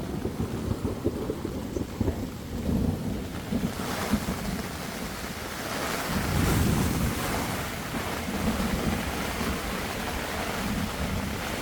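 Thunderstorm: heavy rain hissing, getting heavier about four seconds in, over a low rumbling that swells about six seconds in.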